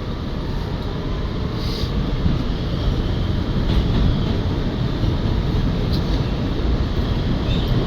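R211A subway train running on the tracks: a steady rumble of wheels and motors that builds slightly, with a few brief high squeaks from the wheels and rails.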